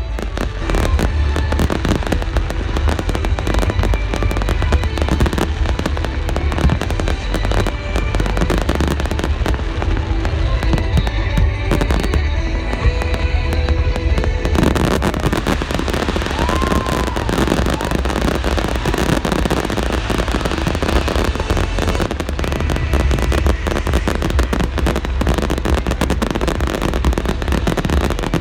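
Fireworks display: a dense, continuous barrage of bangs, booms and crackling shell bursts, with music in the background for about the first half.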